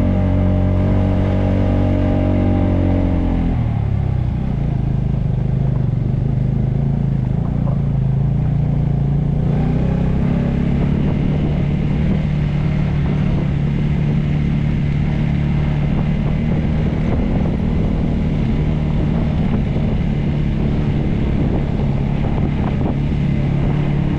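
Motorcycle engine running while riding; its pitch falls about three seconds in, then holds steady.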